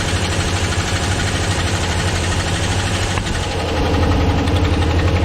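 Chevy 2500HD's 6.0-litre V8 gas engine running at idle with a knocking noise, which the owner suspects is a dropped valve. About three and a half seconds in it gets a little louder.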